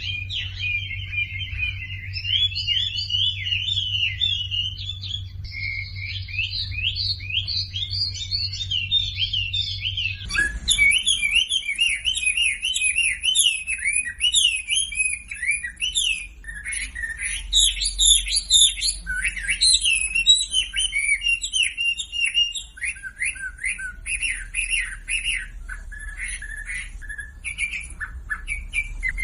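Recorded wambi song: fast, continuous chirping and twittering in quick rising and falling notes. About a third of the way in the recording cuts abruptly to a busier passage of choppier, overlapping phrases with a high thin trill above them, and a low hum heard until then stops.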